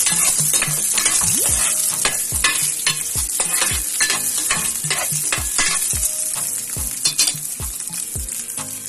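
Garlic and onion sizzling in hot oil in a wok while a spatula stirs and scrapes them, with frequent short scrapes and knocks against the pan.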